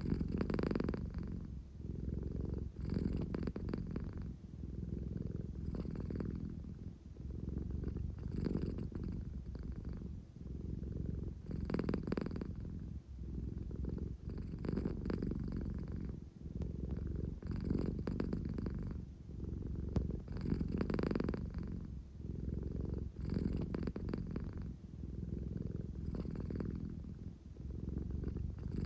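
American Shorthair cat purring, a low steady rumble that swells and eases with each breath, about once every three seconds. It is the purr of a sleepy cat seeking affection.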